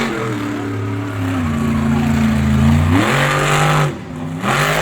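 Monster truck engine revving hard, its pitch climbing and falling with the throttle; the revs drop off briefly near the end, then rise again.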